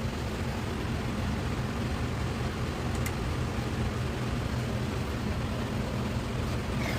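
Steady low mechanical hum under a hiss, with one faint click about three seconds in.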